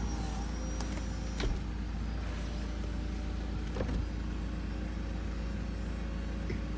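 Mercedes E-Class convertible's power soft top closing: the roof motor runs with a steady hum, with a few knocks from the folding mechanism about a second and a half in and again about four seconds in.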